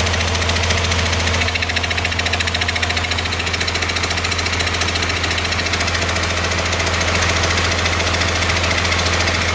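Cummins 6BT 5.9 L diesel idling steadily with a fast, even clatter, mixed with a piston air compressor running alongside.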